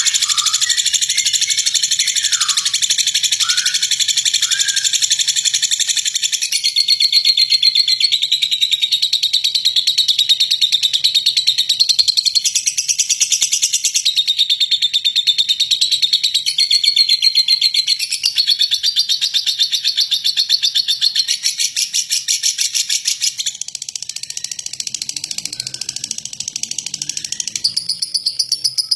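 Lovebird singing a long, unbroken, harsh 'ngeklek': a very rapid, buzzy chattering trill held without a break, its pitch shifting slightly every few seconds.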